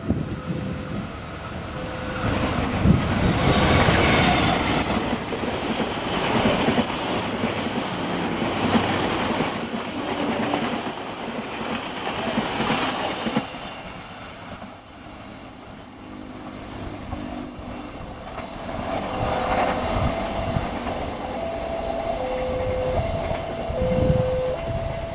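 A train passing close by with a heavy rushing rumble of wheels on rails. It is loudest in the first half and dies away about halfway through. From about three-quarters of the way in, a railway level-crossing alarm sounds two alternating tones, one higher and one lower, about a second each.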